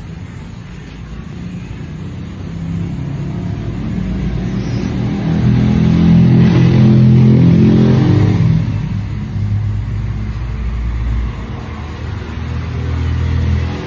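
Motor vehicle engine growing steadily louder, peaking about halfway through, then fading away, like a vehicle passing close by.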